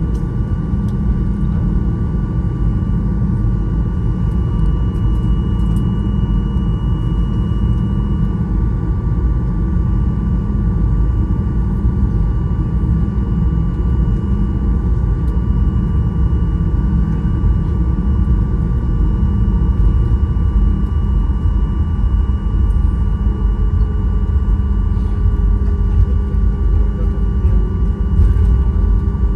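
Steady low rumble of an airliner with two constant high-pitched whining tones over it; a fainter lower hum joins near the end.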